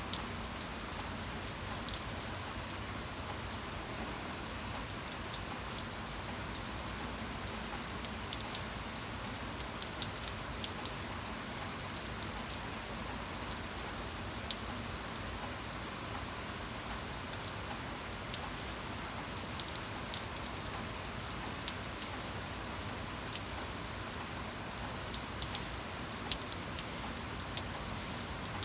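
Steady rain, with a dense patter of individual drops striking a surface.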